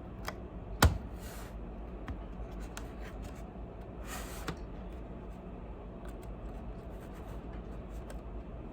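Plastic laptop case being pried apart by hand: scattered small clicks and two brief scrapes, with one sharp snap about a second in, the loudest sound.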